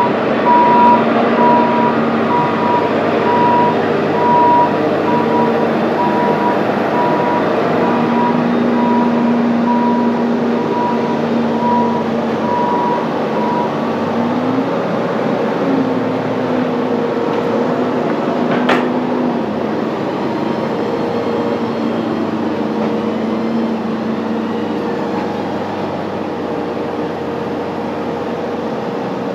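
Sawmill machinery and an engine running steadily, with a machine's reversing alarm beeping at an even pace until about halfway through. A single short sharp noise sounds a little past the middle.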